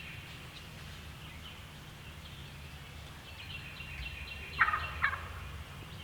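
A wild turkey gobbler gobbles once, a loud double-pulsed burst about four and a half seconds in.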